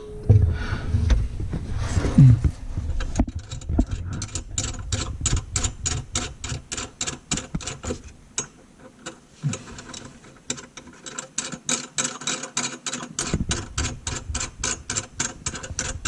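Rapid, even clicking, several clicks a second, as a faucet mounting nut is turned up the long threaded shank, after a few knocks and handling sounds in the first couple of seconds.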